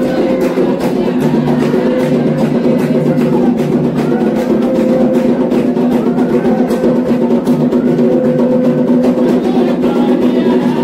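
Candomblé atabaque drums playing a fast, steady toque for Xangô, with voices singing along over the drums.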